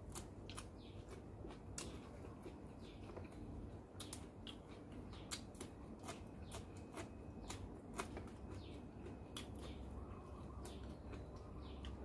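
Close-up chewing and crunching of food, with a quick run of crisp clicks and crackles from the mouth, several a second.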